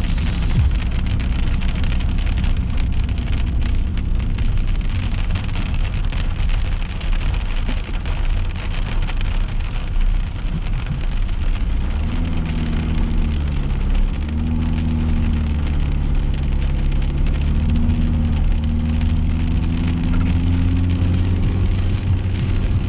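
Rain on a moving car, heard from inside the cabin: a steady wash of rain and wet-road noise. About halfway through, a low hum joins in and steps up and down in pitch.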